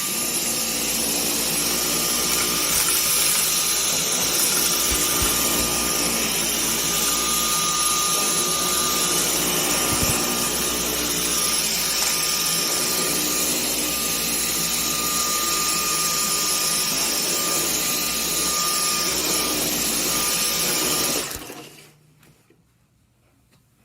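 Dyson vacuum cleaner running steadily on normal power, a loud rushing suction noise with a high whine, switched off about 21 seconds in.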